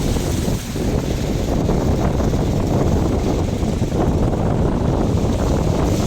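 Wind buffeting the microphone: a loud, steady low rumble with no break, dipping briefly about half a second in.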